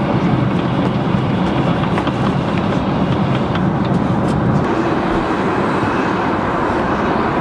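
Steady cabin noise of an airliner in cruise flight: the constant rush and low hum of the engines and airflow, easing slightly about halfway through, with a few faint ticks.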